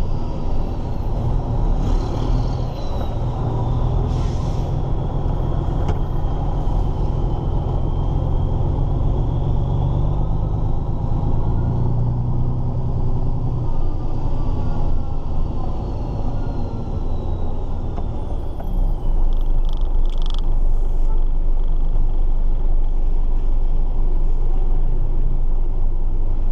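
Heavy truck's diesel engine running steadily, a low rumble with a faint whine that slowly rises and falls. A few short clicks come, and the sound gets a little louder about two-thirds of the way through.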